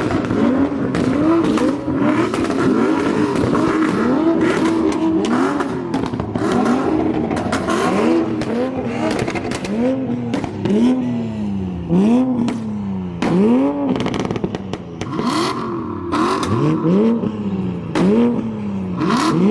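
A car engine revved hard again and again, its pitch climbing and dropping about once a second, with sharp pops and crackles from the exhaust.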